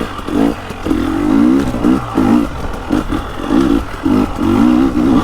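KTM 300XCW's 300 cc two-stroke TPI single running at low rpm and pulling from near idle, its growl swelling and easing every half second or so as the throttle is worked.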